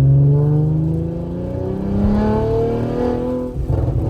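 Audi RS5's twin-turbo V6 with 034 Motorsport high-flow downpipes and an AWE track exhaust accelerating, the engine note rising steadily in pitch, heard from inside the cabin. A brief crackle comes near the end.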